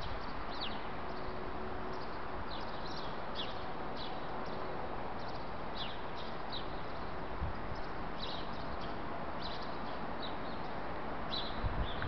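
Small birds giving many short, high chirps, scattered irregularly, over steady background noise.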